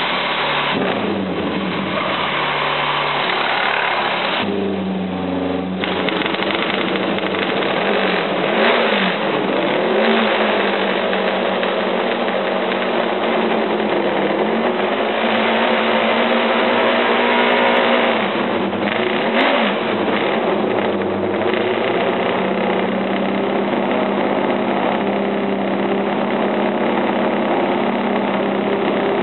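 Benelli road-racing motorcycle engine, freshly started, running and being revved by hand on the throttle, its pitch rising and falling several times between a fast idle and higher revs.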